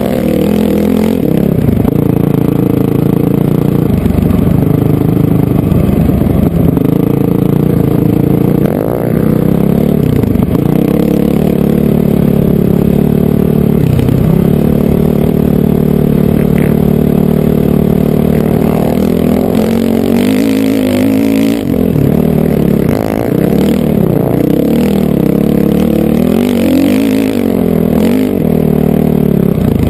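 Honda CRF450R single-cylinder four-stroke dirt bike engine running under way, its pitch rising and falling with the throttle, with several sharper revs in the second half.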